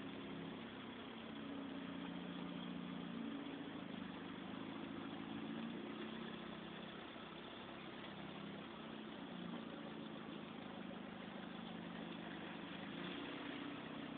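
Suzuki Swift engine running steadily, its pitch shifting slightly a few times.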